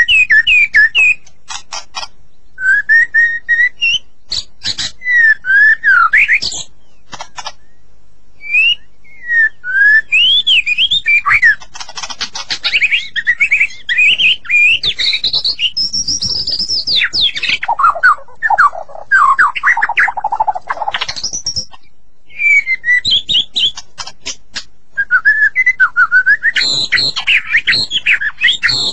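White-rumped shama (murai batu) singing: varied, loud whistled phrases with rising and falling glides and rapid runs of notes, broken by short pauses.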